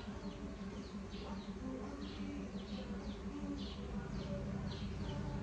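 A bird chirping over and over, short high calls about twice a second, over a steady low hum.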